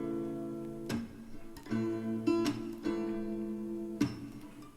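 Background music: an acoustic guitar strumming chords, a fresh strum roughly every second, in an instrumental gap between sung lines.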